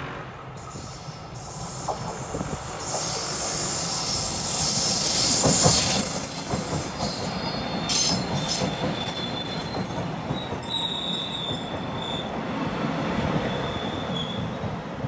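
Taiwan Railways train running along the platform, its rumble rising about three seconds in and fading near the end, with a thin, very high, steady wheel squeal over it and a second, lower squeal late on.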